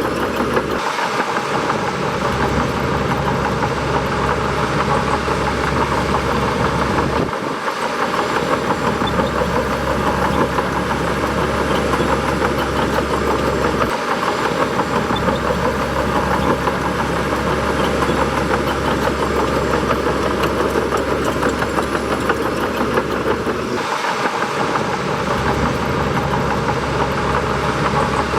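Bulldozer's diesel engine running steadily. Its deepest rumble drops away briefly four times, about a second in, near eight seconds, near fourteen seconds and near twenty-four seconds.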